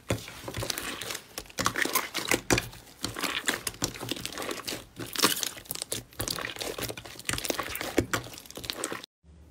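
Slime being squeezed and kneaded by hand, giving a dense, irregular run of crinkling crackles and pops. It cuts off suddenly near the end.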